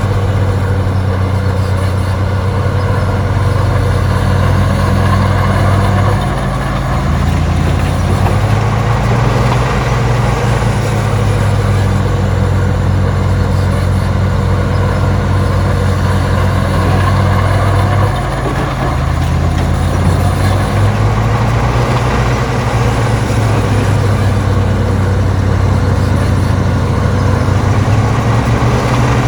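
Heavy construction machine's diesel engine running steadily. Its pitch drops and rises again a few times, about six seconds in and again near the middle.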